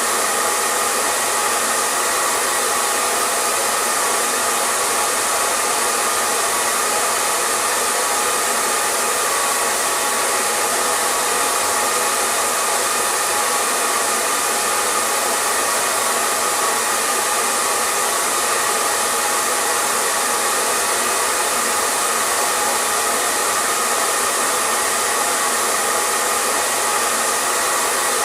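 Hair dryer running steadily: an even, continuous blowing hiss with a faint steady motor whine, with no change in speed.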